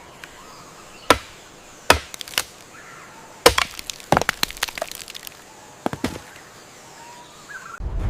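A series of sharp, irregular knocks and cracks: single hits about one, two and two and a half seconds in, then a tight cluster around four to five seconds, and a couple more around six seconds.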